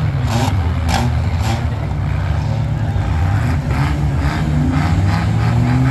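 Several demolition-derby compact cars' engines running and revving, their pitch rising and falling. Three short knocks come in the first second and a half, and a quicker run of knocks about two-thirds of the way through.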